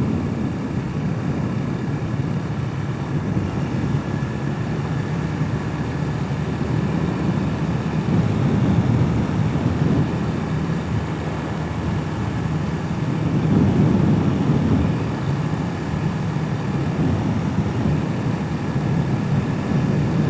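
Hawk 250 enduro motorcycle's engine running while riding, under a steady rush of wind noise, the engine swelling louder twice, about eight and about thirteen seconds in.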